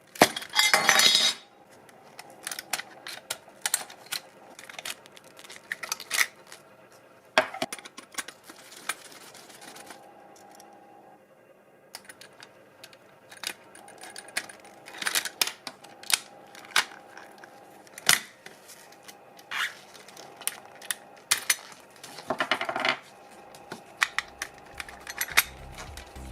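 Small hard metal and plastic parts of a diecast scale model car clicking and clinking as they are handled, with a loud rattling scrape lasting about a second at the start.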